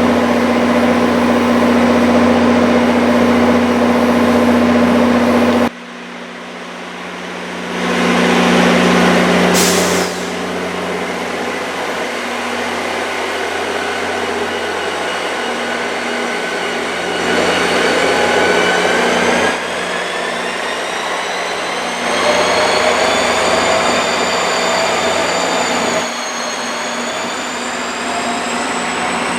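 Train at a station platform: a steady engine hum, then after a break a loud air hiss from the brakes, then a whine that rises steadily in pitch as the train's motors accelerate it away.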